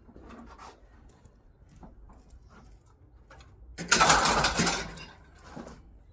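A loud rattling clatter of scrap metal being handled or dropped, about a second long and starting about four seconds in, with faint knocks and rustles before it.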